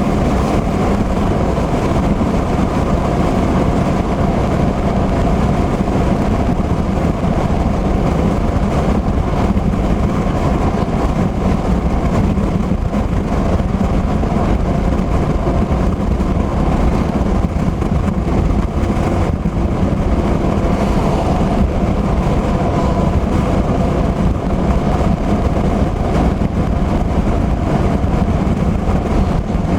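Car driving at highway speed in heavy rain, with a steady rush of road and engine noise and a low hum.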